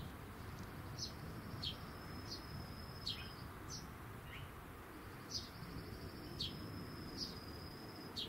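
Small birds chirping: short, high, falling chirps at uneven intervals, and two high buzzing trills of about three seconds each, over a low steady rumble.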